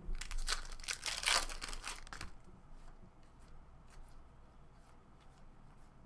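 A foil trading-card pack wrapper being torn open and crinkled for about two seconds, followed by faint light ticks of handling.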